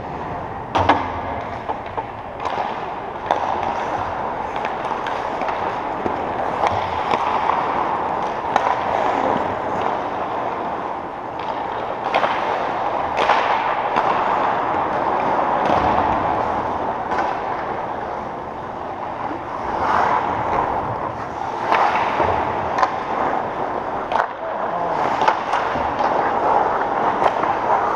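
Game play on the floor of a large arena. A steady scraping and rumbling runs throughout, broken by many sharp knocks and cracks at irregular moments, from sticks, ball or puck, and the boards.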